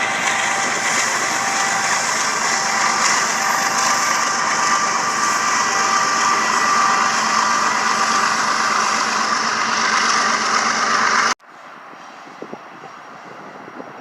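Union Pacific freight train passing close by: a loud, steady rumble of wheels on rails with a few steady high ringing tones over it. It cuts off abruptly near the end, leaving a much quieter steady rumble with a few faint clicks.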